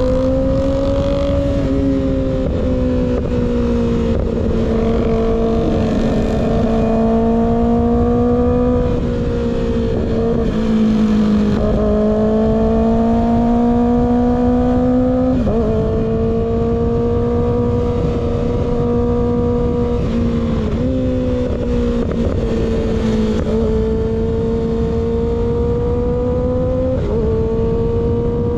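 Kawasaki ZX-6R inline-four engine running through an unbaffled M4 GP19 slip-on exhaust while riding. Its pitch climbs gradually under throttle and steps down abruptly half a dozen times, as with gear changes or the throttle rolling off.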